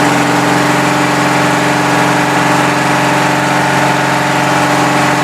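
Wheel Horse garden tractor engine running steadily at an even speed, moments after a cold start.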